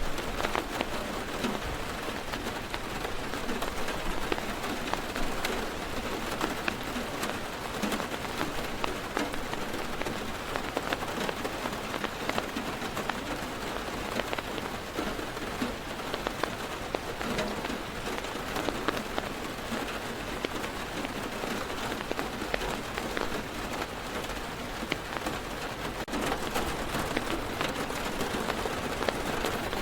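Heavy rain falling on a car's roof and windows, heard from inside the car: a steady dense patter with many individual drops ticking on the body.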